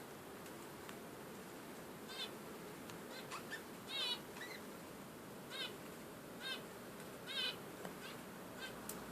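Budgerigars giving short warbling chirps, about six scattered calls over a steady faint hiss.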